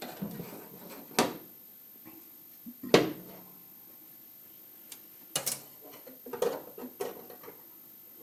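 Scattered knocks and clatters of hand work with tools and parts, about half a dozen in all, the loudest about three seconds in.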